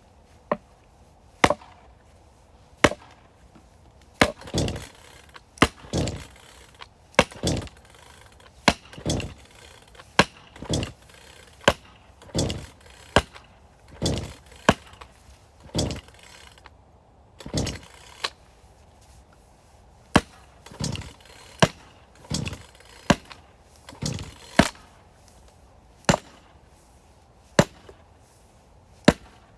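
Axe chopping firewood: a steady series of about twenty blows, roughly one every second or so. Each blow is a sharp crack, often followed by a duller thud.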